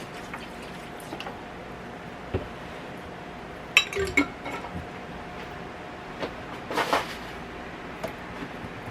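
Kitchen utensils and cookware clinking and knocking in a few separate sharp hits, the loudest about four seconds in, with a short clatter near the end.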